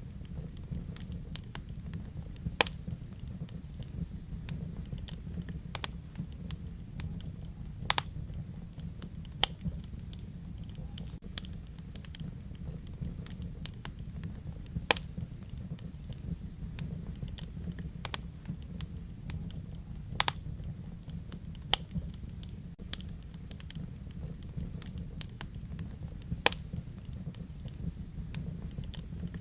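Wood fire in a fireplace crackling over a steady low rumble of flames, with irregular sharp pops, a few of them louder, including two close together around twenty seconds in.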